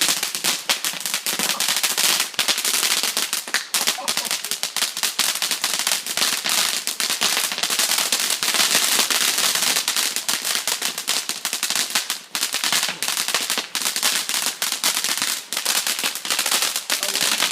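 Consumer fireworks crackling and popping on the ground: a continuous rapid string of small sharp bangs over a steady crackle, with no pause.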